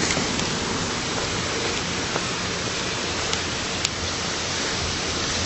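Steady rush of running water, with a faint click just before four seconds in.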